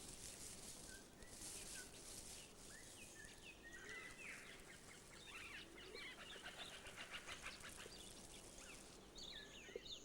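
Faint wild-forest ambience: scattered bird chirps and short whistles, with a rapid trill in the middle, over a steady high hiss.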